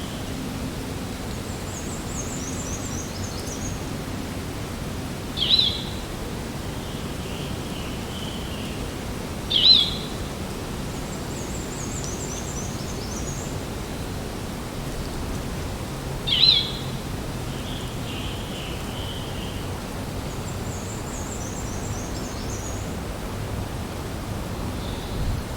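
Spring forest ambience: a steady, even rush of background noise with several songbirds calling over it. A high, quick series of notes comes about every ten seconds, three short sharp chirps are the loudest sounds, and softer warbling phrases sit between them.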